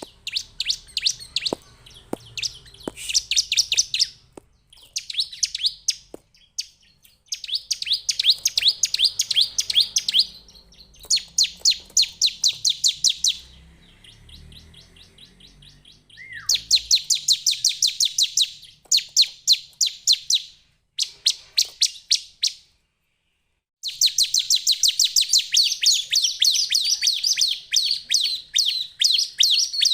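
Bar-winged prinia singing: fast runs of high, sharp, evenly repeated notes, several a second, each run lasting a few seconds with short pauses between.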